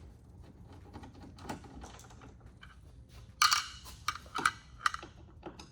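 Hand tools clicking and tapping as a T25 Torx bolt is worked out of a van's door panel: scattered light clicks, then a louder cluster of sharp clicks and taps about three and a half seconds in.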